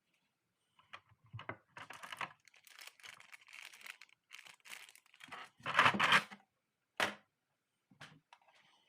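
Hands handling crinkly material, with rustling, crinkling and tearing. The loudest rustle comes about six seconds in, followed by a sharp crack about a second later and a smaller one near the end.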